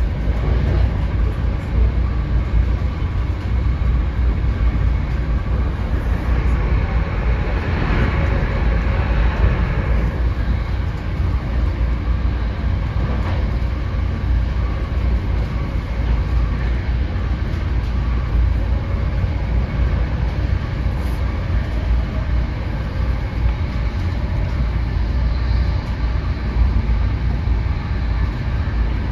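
Inside an NJ Transit Arrow III electric multiple-unit car on the move: a steady low rumble of wheels on rail with a hiss over it and faint steady whining tones, swelling briefly about eight seconds in.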